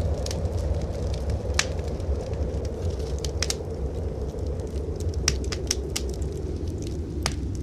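Wood fire in a fireplace crackling, with scattered sharp pops, over the steady low rumble of blizzard wind.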